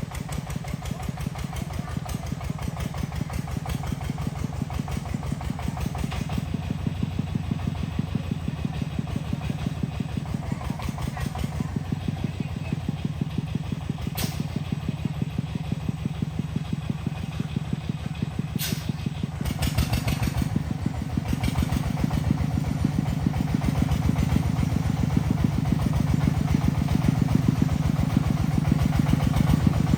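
A vehicle engine running steadily with rapid, even firing pulses, getting somewhat louder about two-thirds of the way through. A couple of brief clicks sound partway in.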